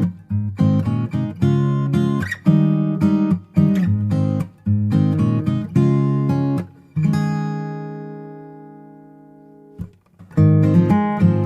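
Background music of a strummed acoustic guitar playing chords. About seven seconds in, one chord is left ringing and fades away, and the strumming picks up again near the end.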